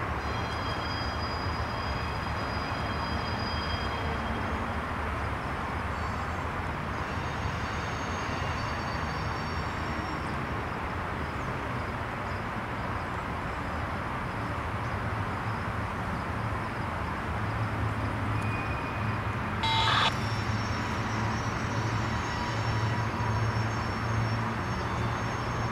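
Freight train cars rolling steadily past, with thin, high squealing tones from the wheels. A short, sharp, louder sound cuts in about twenty seconds in, and a low hum builds toward the end.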